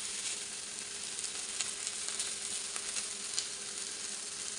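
Eggplant slices frying on a hot iron tawa: a steady sizzle with scattered crackling pops, over a faint steady hum.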